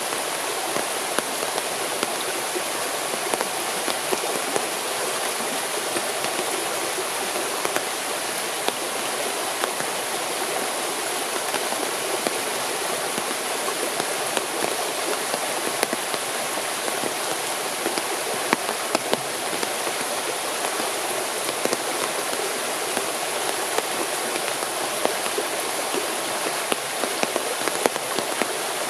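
Forest stream running steadily, with a constant rush of water and many small splashing ticks.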